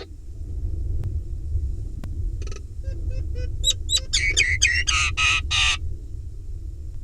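Common myna calling: a run of quick clicks and short rising whistles, then a few loud, harsh rasping notes about five seconds in, over a low steady hum.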